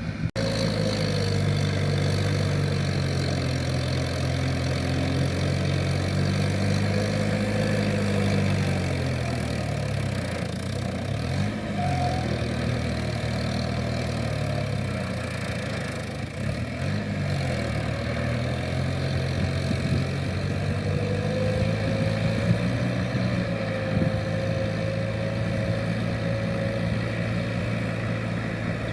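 Kubota M7040SU tractor's diesel engine running steadily under load while ploughing, its pitch dipping and recovering several times as the load on it changes.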